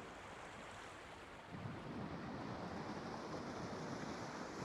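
Faint steady rushing noise with no clear events, a little fuller from about a second and a half in.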